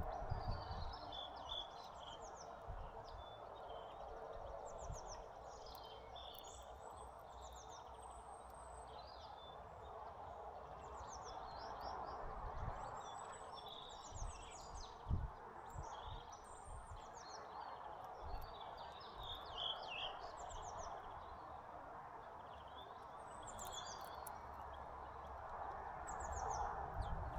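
Small birds chirping and calling again and again in short high notes, over a steady background hiss of outdoor noise, with a few soft low knocks.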